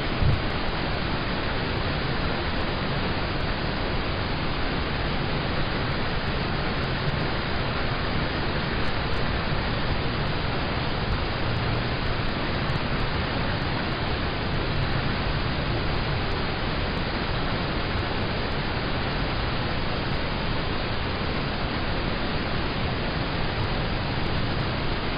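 Steady rain falling on a car's roof and windows, heard from inside the car: an even hiss with a low rumble beneath it, and a single low knock just after the start.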